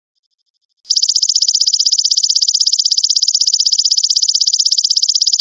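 Golden grasshopper ('belalang emas') insect calling: a loud, high-pitched, rapidly and evenly pulsed buzz that starts about a second in and carries on steadily.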